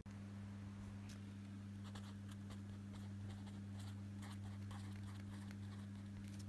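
A pen writing on paper in short, irregular scratchy strokes, starting about a second in, over a steady low hum.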